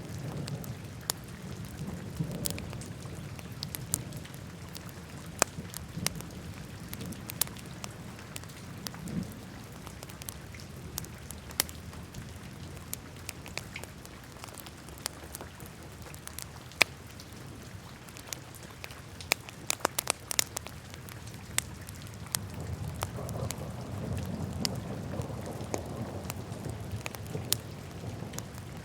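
Wood fire burning in a fireplace: irregular sharp crackles and pops over a low, steady rumble of the flames, which swells for a few seconds late on.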